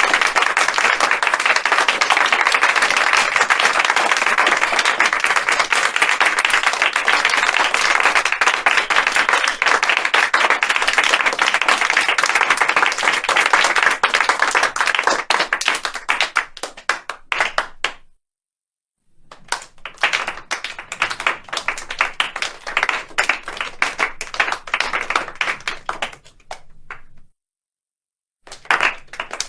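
Applause: a dense patter of many hands clapping that thins out to a few scattered claps and stops. It is followed by two more rounds of clapping, separated by short silences.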